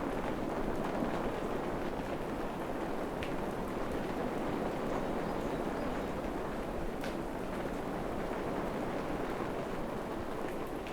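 Steady rain falling in a tropical forest: an even, continuous hiss, with a couple of faint ticks of drops.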